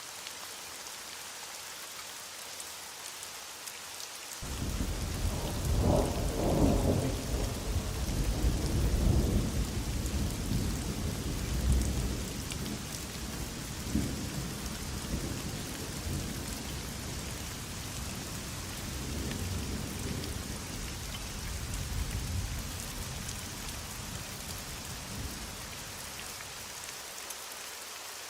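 Heavy rain falling steadily, with a long roll of thunder that breaks in suddenly about four seconds in, peaks over the next several seconds and rumbles away slowly.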